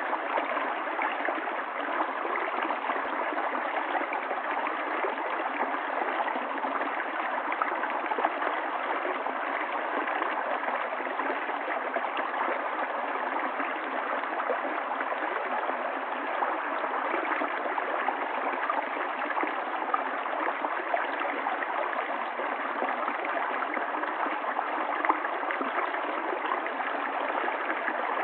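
Running water of a stream flowing steadily, an even rushing splash with no pauses.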